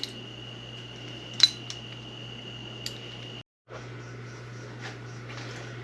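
A few light metallic clinks of hand tools over a steady low hum, the sharpest clink about a second and a half in. The sound cuts out for a moment around three and a half seconds in, then the hum resumes.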